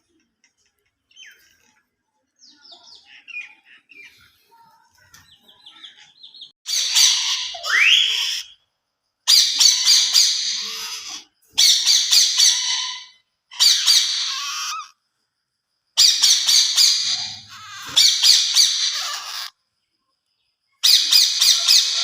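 Pet parrot calling: a few faint chirps, then loud, harsh screeches in about seven bursts of one to two seconds each, separated by short pauses.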